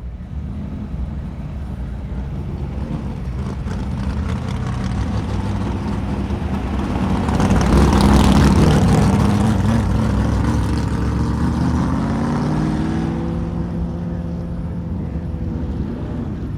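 A motor vehicle engine running: it starts out of silence, grows louder to a peak about halfway through, then eases off as its pitch rises.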